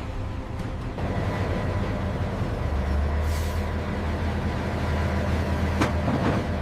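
Freight train running with a steady low rumble, a short air-brake hiss about three seconds in, and two sharp clanks near the end.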